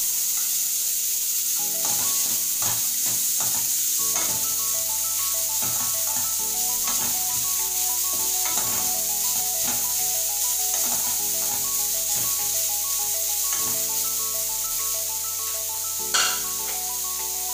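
Minced garlic, onion and diced carrot sizzling in hot oil in a stainless steel wok, stirred with a wooden spatula that scrapes the pan in irregular strokes. Background music plays throughout, and there is a single sharp knock near the end.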